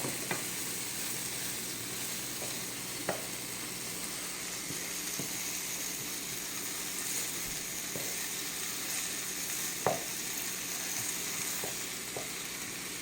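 Chicken pieces sizzling steadily as they brown in a frying pan, with a few sharp knocks, the loudest about ten seconds in.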